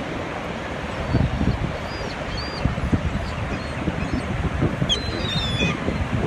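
Seagulls calling in short high cries over wind buffeting the microphone and surf noise; a couple of faint cries come about two seconds in, and a clearer run of falling calls comes about five seconds in.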